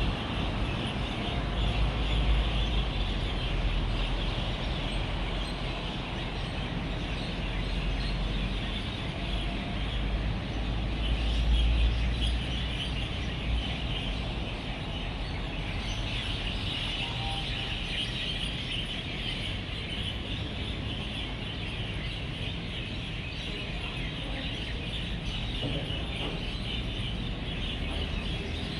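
A large flock of birds chattering continuously at their evening roost, a dense mass of overlapping chirps, over the low rumble of passing traffic that is heavier in the first half.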